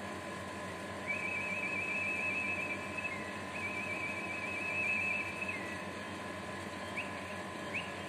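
A bird's whistled calls: two long warbling whistles of about two seconds each, each ending with a brief downward slur, then two short rising chirps near the end.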